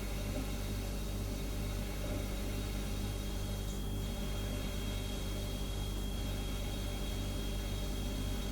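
Refrigerator humming steadily, a low electrical drone over a soft hiss, with a thin high whine joining about four seconds in.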